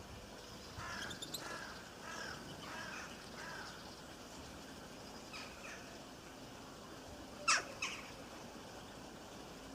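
Birds calling over a faint steady hiss of rain: a run of about five arched calls in the first few seconds, then two sharp, louder chirps close together about three-quarters of the way through.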